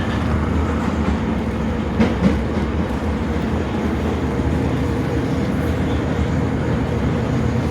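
Class 455 electric multiple unit running on the rails: a steady rumble of wheels and running gear, with a couple of sharp rail-joint knocks about two seconds in.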